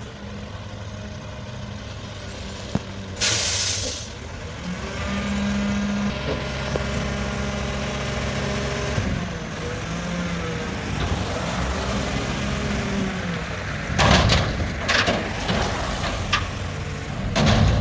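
Mack garbage truck with a McNeilus front-loader body running, with a short, sharp air-brake hiss about three seconds in. After that the engine runs steadily with a shifting pitch, and loud clanks and hisses come near the end.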